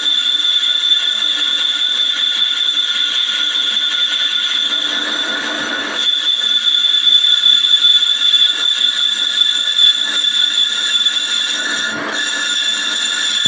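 Lathe cutting tool skimming a Suzuki APV's cast-iron brake disc, giving a steady high-pitched metallic squeal that grows a little louder about halfway through.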